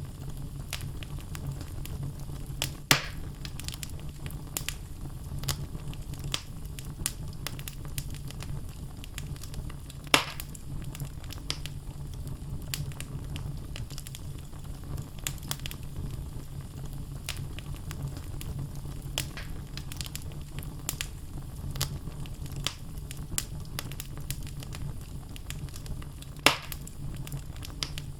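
Wood logs burning in a fireplace: a steady low rumble of flames with frequent small crackles, and three louder pops, about 3, 10 and 26 seconds in.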